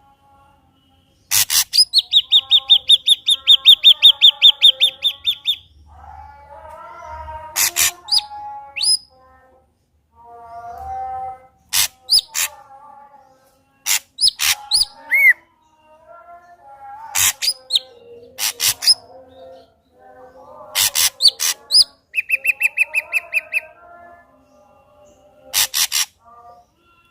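Ashy drongo singing a loud, varied song of sharp whistled notes and softer warbling phrases, with a fast rattling trill of evenly repeated notes a couple of seconds in and a shorter one near the end.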